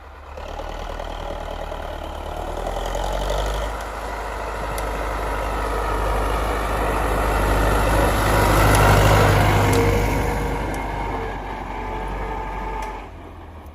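YuMZ tractor's diesel engine running steadily, growing louder toward the middle and easing off again near the end.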